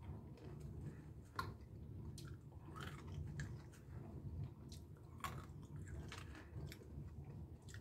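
A person chewing a mouthful of dry roasted peanuts, with faint, irregular sharp crunches.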